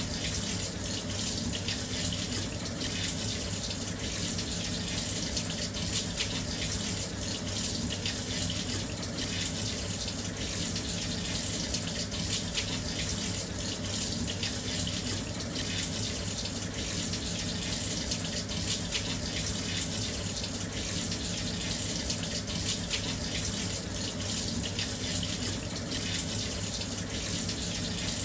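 Washing machine filling with water: a steady, even rush of water pouring into the drum, with a low hum beneath.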